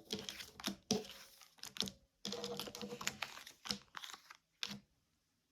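Tarot cards being handled and laid out on a table: a string of light clicks and taps, with a denser stretch of rustling card handling in the middle.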